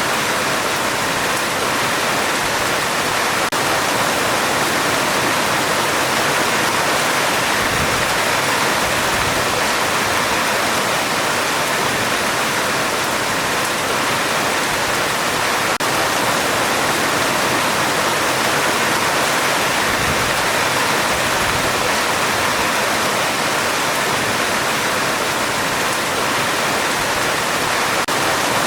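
Heavy rain falling steadily on a metal roof, a dense even hiss that does not let up.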